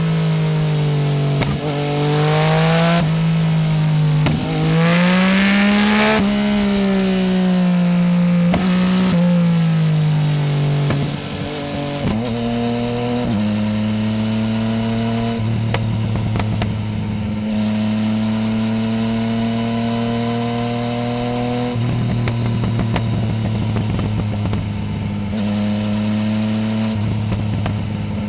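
Yamaha Tracer 900 GT's 847 cc inline-three, fitted with a full Roads Italia exhaust without its dB killer, revving up and down under the rider's throttle, its pitch rising and falling several times with brief breaks over the first ten seconds or so, then running at a steady, nearly constant pitch.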